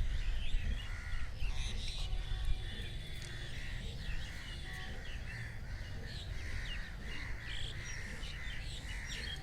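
Birds chirping and calling, one of them repeating a short call a few times a second, over a steady low rumble.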